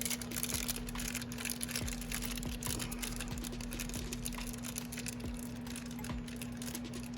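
Quick, light clicks and rattles of small metal brake-caliper parts and tools being handled, over a steady low hum.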